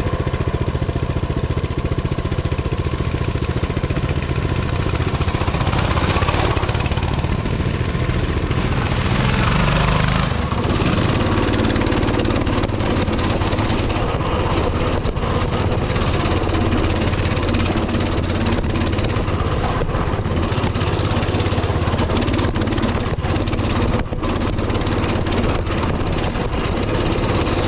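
Mini bike's small single-cylinder Predator 224 engine running steadily under way. It pulls harder and climbs in pitch around the middle, then drops back and settles just after.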